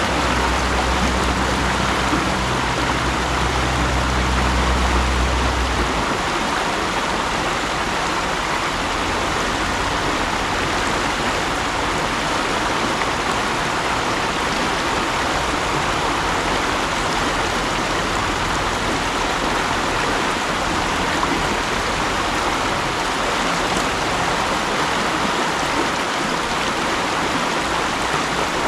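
Mountain stream rushing steadily over rocks, a dense even water noise. A low droning hum underneath stops about six seconds in.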